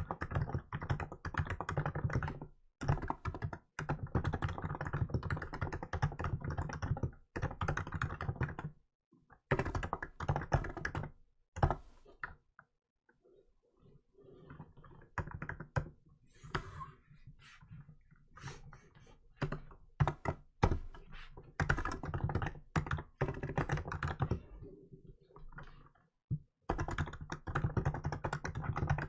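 Typing on a Hansung GK868B electro-capacitive keyboard with milk keycaps: fast runs of key strokes broken by short pauses. About twelve seconds in the typing stops briefly, then comes back softer and sparser for several seconds before dense typing resumes.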